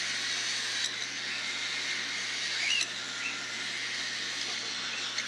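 Baby cockatiels' constant raspy begging chatter, with a few short chirps and a couple of sharp clicks.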